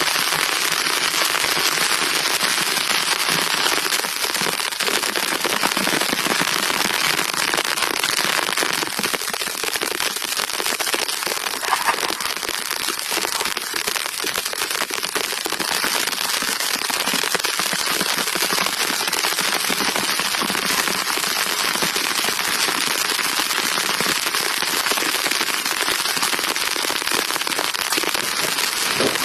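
Heavy rain falling steadily, a dense, unbroken crackle of drops.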